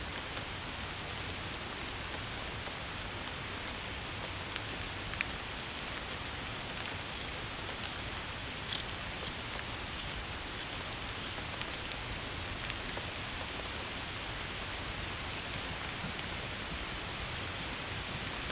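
Steady rain falling, an even hiss, with a few sharper ticks of single drops, the clearest about five and about nine seconds in.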